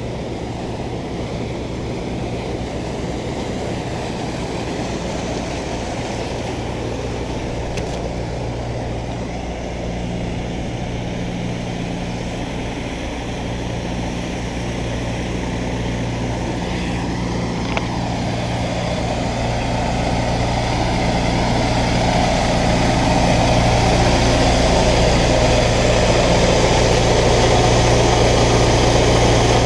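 An engine running steadily with a low hum, growing louder in the second half.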